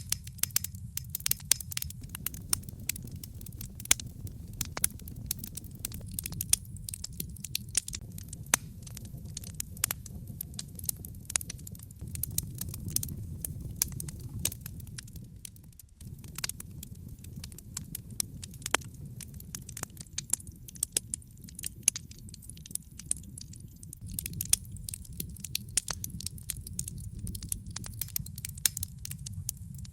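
Wood logs burning in a fireplace, crackling with many sharp pops over the low, steady rumble of the flames.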